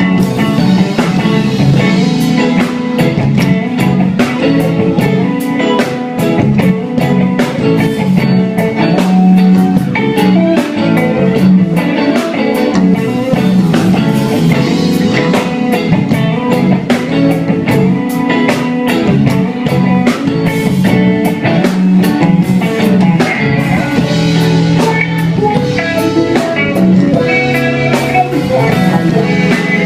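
Live band playing an instrumental passage: guitar over a drum kit keeping a steady beat, with no singing.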